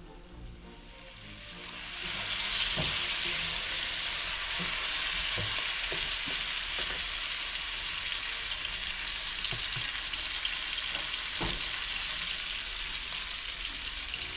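Chopped onion sizzling in hot oil in a frying pan as it is sautéed with salt and stirred. The sizzle swells up about two seconds in and then holds steady, with a few light knocks of the stirring utensil against the pan.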